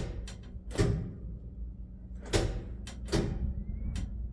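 Repeated sharp clicks from a 1963 Chevy C10's starter circuit as the ignition key is turned, five in a few seconds at uneven spacing, with the six-cylinder engine not cranking over. A steady low hum runs behind the clicks.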